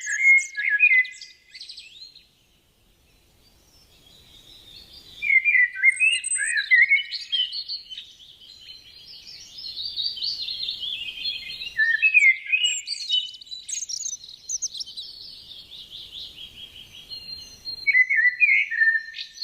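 Budgerigars warbling and chattering: a busy run of quick chirps, trills and squeaks, with a short pause about two seconds in before the chatter resumes.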